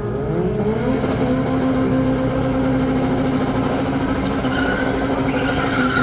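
Volkswagen Golf Mk3's VR6 engine at full throttle during a quarter-mile drag run: the revs climb over the first second, then the engine holds a steady high note.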